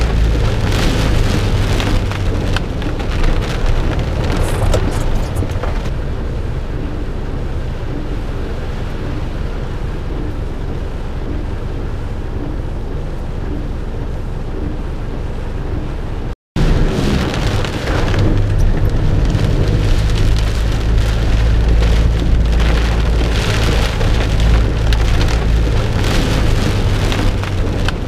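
Heavy rain pouring down in a thunderstorm downpour, a dense steady hiss with a deep low rumble underneath in the first couple of seconds and again through the second half. The sound cuts out for a split second about halfway through.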